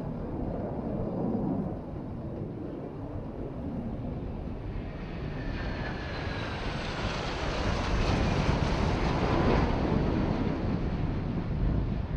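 Jet aircraft passing in a flying display: a rushing engine noise that swells about halfway through, with a whine that drops in pitch as the jet goes by, and wind on the microphone.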